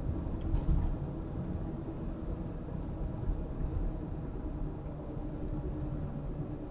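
An engine running steadily with a low rumble, with a few light clicks about half a second in.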